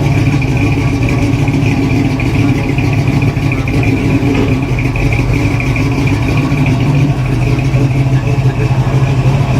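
Car engine running steadily, loud and close, with a constant low drone.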